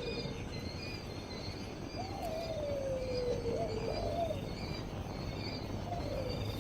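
Birds calling: a long, slightly wavering call that falls in pitch starts about two seconds in and lasts about two seconds, over a string of short, high chirps that keep repeating.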